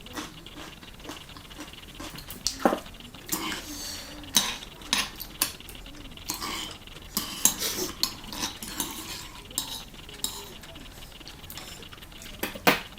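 Eating utensils clinking and scraping against a ttukbaegi earthenware pot as the last of the cheese ramyeon is scooped out, in irregular sharp clicks and knocks.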